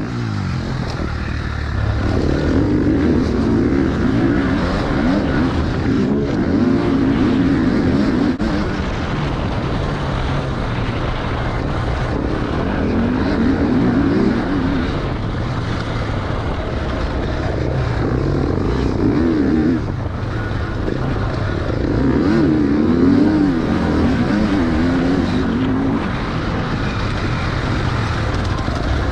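Single-cylinder four-stroke KTM dirt bike engine being ridden hard around a motocross track, its pitch climbing and dropping again and again as the throttle is opened and rolled off.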